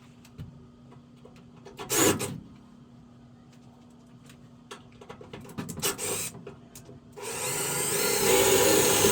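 Adhesive tape pulled off its roll in a long rasping strip for about two seconds near the end, after a short scrape about two seconds in and a few handling clicks. A steady low hum runs underneath.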